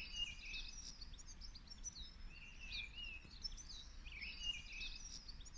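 Several songbirds singing and chirping over faint low background noise.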